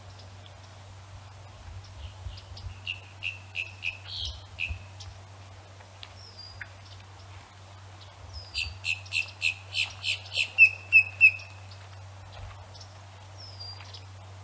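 A bird singing two phrases of evenly repeated high chirps, about three or four a second, the second phrase louder, with a few thin falling whistles between them.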